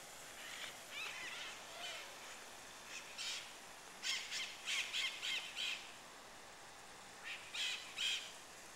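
Birds calling outdoors: short, repeated calls, a quick run of about six around the middle and three more near the end, over a faint steady background.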